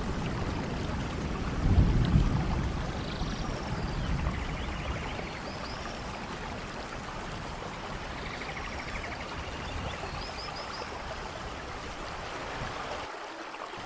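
Steady rainforest rain with a low rumble of thunder about two seconds in. Faint high chirping and trilling calls sound over the rain.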